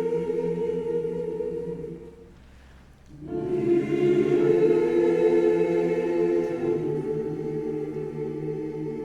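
A choir singing held chords in harmony. About two seconds in it breaks off for roughly a second, then comes back in on the next phrase.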